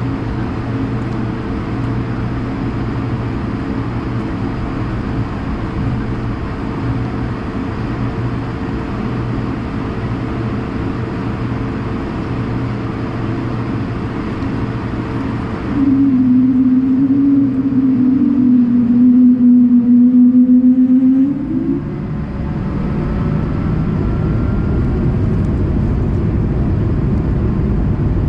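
Cabin hum and airflow hiss of an Airbus A220-100. About sixteen seconds in, the hiss drops away and a loud wavering drone takes over for about five seconds. It is followed by a faint rising whine as one of its Pratt & Whitney PW1524G geared turbofans starts and spools up.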